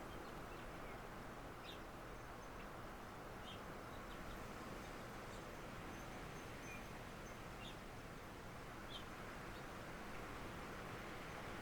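Steady wind and rain noise with faint, short bird chirps every couple of seconds.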